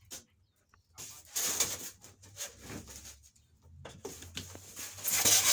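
Styrofoam packing squeaking and scraping as it is pulled and rubbed, in scratchy bursts starting about a second in and growing louder near the end; a grating sound that hurts the ears.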